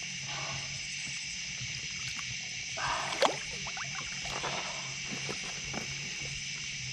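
Steady high drone of night insects, with light water splashing and a sharp knock about three seconds in as a big catfish is brought to the net beside a kayak, and scattered small clicks.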